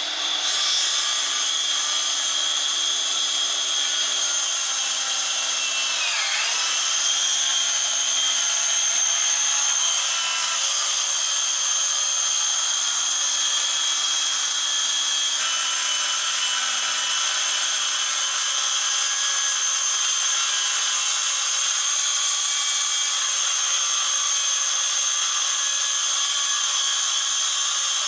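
Electric power saw running steadily with a high whine as it slowly cuts through a silicone paddle; about six seconds in its pitch dips briefly as the blade bogs under load.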